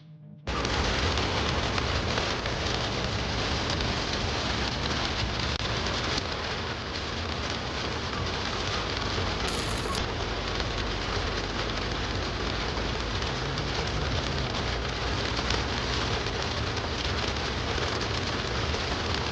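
Heavy rain pelting a car as it drives, a dense steady hiss with the low rumble of the car underneath, cutting in abruptly about half a second in.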